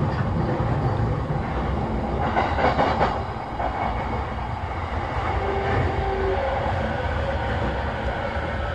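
JR East E233-7000 series electric train running between stations, heard from inside a motor car: a steady rumble of wheels on rail, with a short burst of clatter about two to three seconds in.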